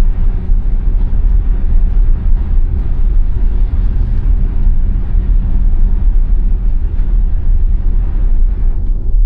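Steady low rumble of an electric Tesla Model Y rolling over a snow-covered road, tyre and road noise heard from inside the car, with no engine note.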